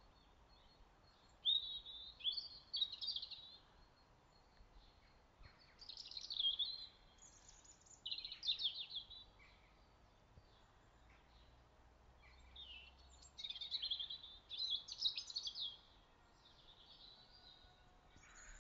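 Faint bird song: several short, high, chirping and trilled phrases, each a second or two long, with pauses between them, over a low hiss.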